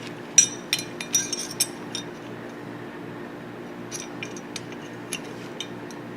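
Steel parts of a Tokarev TT-33 pistol clicking and clinking as they are handled and fitted together during reassembly: a run of sharp metallic clicks in the first two seconds, then a few lighter clicks about four to five and a half seconds in. A steady hum runs underneath.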